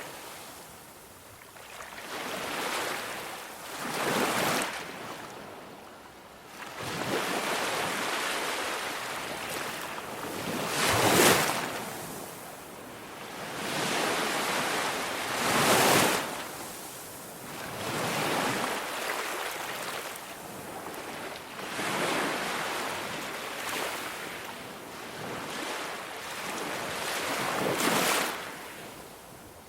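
Ocean surf: waves washing in, swelling and fading again every few seconds, with no crackling.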